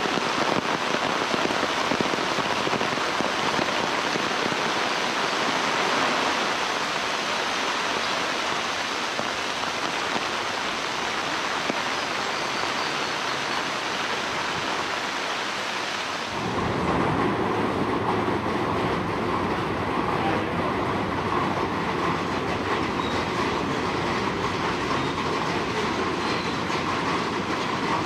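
Heavy rain falling steadily. About two-thirds of the way in, the sound changes suddenly to a deeper, fuller rush of rain.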